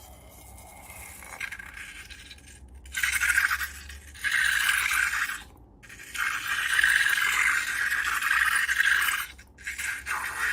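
Gritty scraping and rubbing, as of slime being worked in an ASMR session, coming in several stretches of one to three seconds with short breaks between them.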